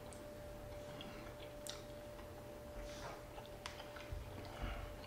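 Faint chewing of seared alligator bites, with a few small sharp mouth clicks, over a thin steady hum.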